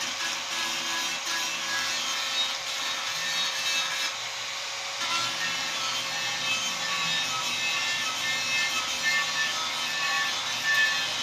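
Continuous rasping scrape of abrasive hand work, rubbing back and forth on an old Yamaha R15 motorcycle fuel tank during its repair.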